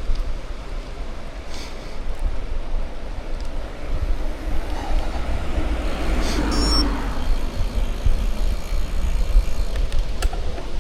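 Steady wind rumble on the microphone of a moving bicycle, with tyre noise. A motor vehicle passes about halfway through, rising and then fading.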